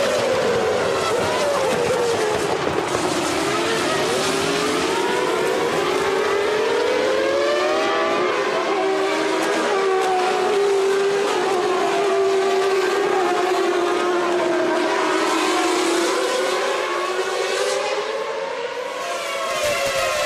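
Several Formula One cars' V10 engines running at high revs, their pitches overlapping and repeatedly climbing and falling as they accelerate, shift and slow.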